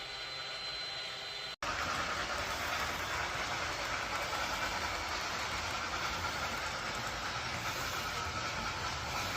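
A train running, a steady rumbling hiss with no clear rhythm. It drops out for an instant about one and a half seconds in, then carries on a little louder.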